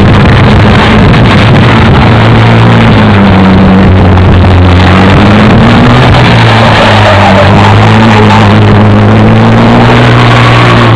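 Truck engine running loud and steady, with small rises and falls in pitch.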